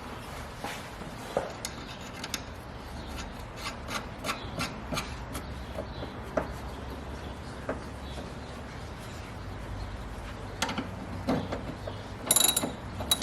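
Hand tools working on car suspension parts: scattered metal clicks, scrapes and knocks, with a short burst of louder clanks near the end.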